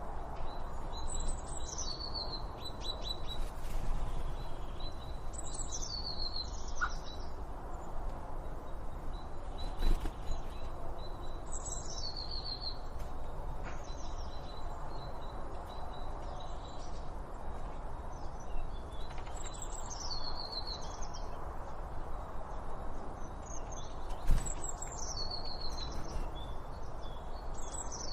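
Songbird singing a short phrase of quick notes that step down in pitch, repeated about every six or seven seconds over a steady background hiss, with a thin steady high tone behind it. Two sharp knocks, one about ten seconds in and a louder one near 24 seconds.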